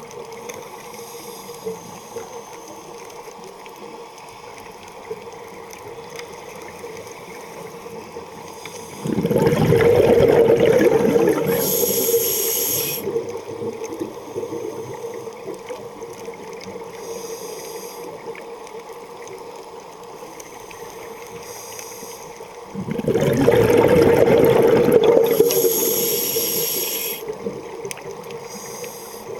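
Underwater water noise: a steady hiss with two loud rushing, bubbling surges about fourteen seconds apart. Each starts suddenly, fades over about four seconds and ends in a short high hiss.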